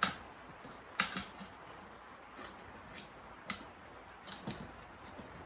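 Tire levers clicking and knocking against a motorcycle wheel rim while a tire bead is worked onto it by hand: about eight sharp, irregular clicks, the loudest at the start and about a second in.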